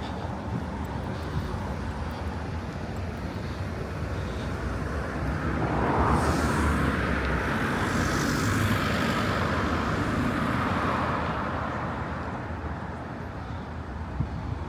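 Steady street background noise, with a passing vehicle that swells about five seconds in and fades away over the following several seconds.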